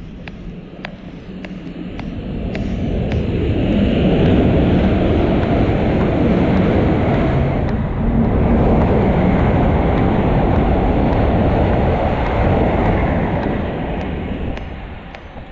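A train running through the station at speed: a rumbling roar that builds over a couple of seconds, holds for about ten seconds with a brief dip midway, then fades away.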